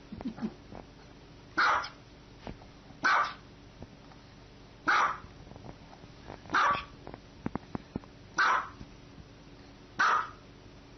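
A dog barking: six single, short barks, evenly spaced about every one and a half to two seconds.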